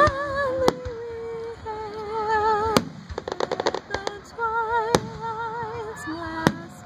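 Aerial fireworks exploding: four sharp bangs about two seconds apart, with a quick run of crackling pops about three seconds in.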